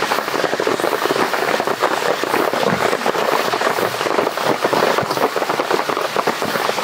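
Heavy rain falling, heard as a loud, steady, dense crackle of drops.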